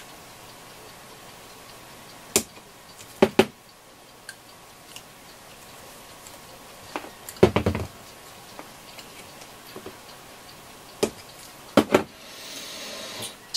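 Sharp clicks of side cutters snipping off wire ends, several separate snips with pauses between, and a heavier knock about halfway.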